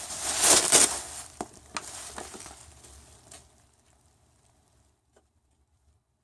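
Rustling and scraping of packaging and a plastic larva case being handled, loudest in the first second, then a few light clicks that fade out about three seconds in.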